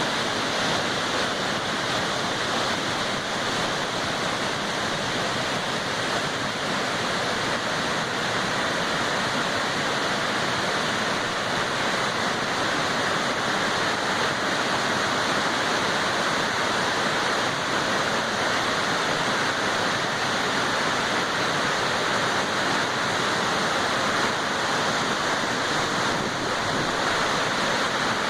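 Waterfall rushing: steady, unbroken noise of falling water.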